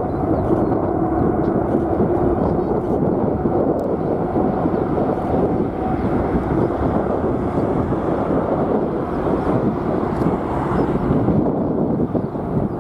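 Jet airliner's engines at takeoff power, a steady loud rumble with a faint tone through the first half, mixed with strong wind buffeting the microphone.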